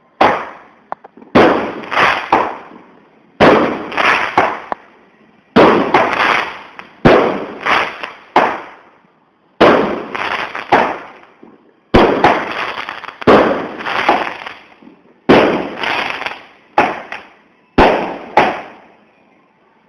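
Fireworks going off in a rapid series: about a dozen loud bangs, one every second or two, each followed by a few quick cracks and a fading crackle. The spacing fits a pyrotechnic cake firing its shots in turn.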